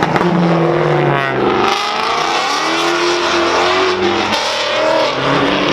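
Car engine running and revving, its pitch slowly falling and rising.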